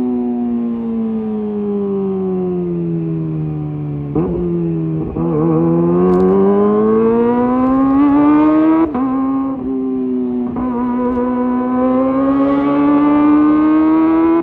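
Kawasaki ZX-25R's 250 cc inline-four engine through a LeoVince GP Evo high-mount exhaust, under way. The revs fall away for about four seconds, then after two short breaks they climb. The pitch drops suddenly near nine seconds, as on an upshift, and then rises steadily again.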